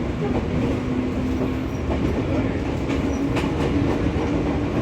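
Fujikyu 6000 series electric multiple unit, a converted JR 205 series with field-added excitation control, running along the track. The wheels rumble and clack on the rails under a steady whine that rises slightly in pitch.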